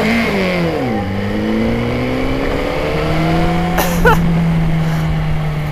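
Honda CBR600RR motorcycle engine while riding: the note drops in the first second as the revs fall, then rises steadily as the bike pulls away, breaking off briefly about four seconds in and then holding steady.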